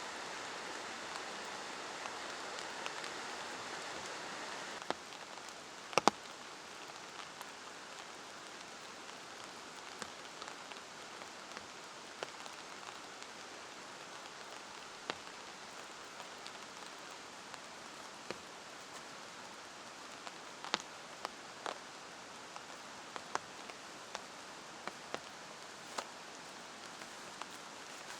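Steady rain hissing, with scattered single heavy drops striking sharply, one louder knock about six seconds in. The hiss turns quieter about five seconds in.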